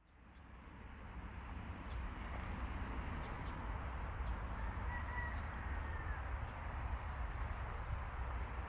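Faint outdoor ambience that rises from silence over the first second or two: a steady low rumble with a few faint short bird calls.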